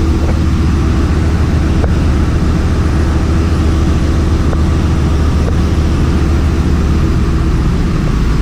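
Ship's engine-room machinery running with a steady, loud, deep hum and a faint constant tone above it.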